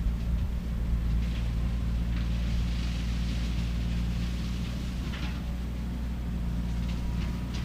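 Skid steer engine running steadily with a shredder head attachment, with brief higher crackles scattered through it as the head chews into cane.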